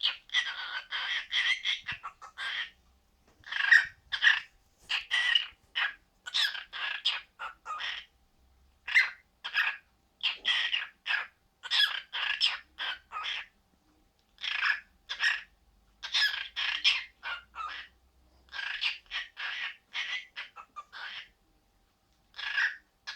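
Pet parrot calling: short, sharp squawks and chirps in quick runs of several, with brief pauses between the runs.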